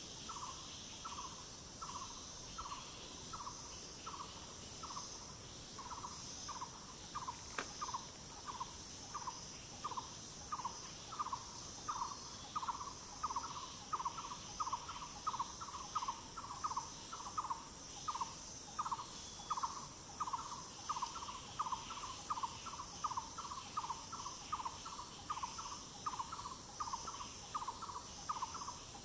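A forest bird gives a long series of short notes, about two a second, which grow louder and come more often about a third of the way in. Behind it runs a steady high-pitched drone of insects.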